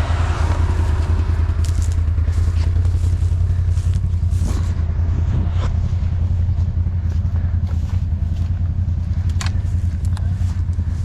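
ATV engine running at a steady idle, with a few short knocks and clatters.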